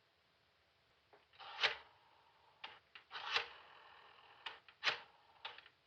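A few short knocks and rustling scrapes from people moving about a room, the loudest about a second and a half and three seconds in.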